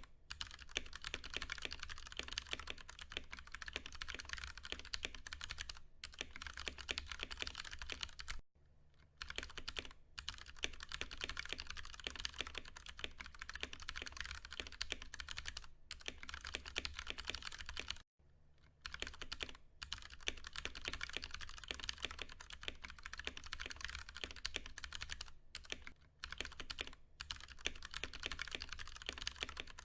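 Continuous fast typing on a Ducky One 2 Mini mechanical keyboard with Cherry MX Brown switches, a steady stream of key clicks and clacks. Typing stops briefly twice, about a third and about two thirds of the way through.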